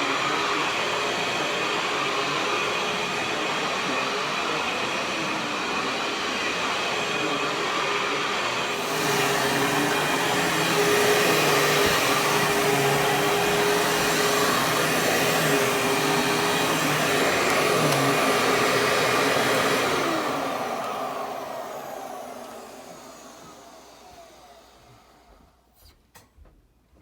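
Dirt Devil Featherlite bagless upright vacuum running with a steady whirring hiss, which gets louder about nine seconds in. It is then switched off and the motor winds down over several seconds, followed by a couple of faint clicks.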